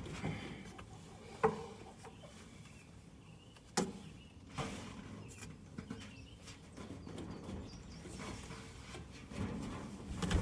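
Handling noise of dryer parts being worked on: a few sharp knocks and clicks, about a second and a half in and again near four seconds, over faint rubbing and rustling.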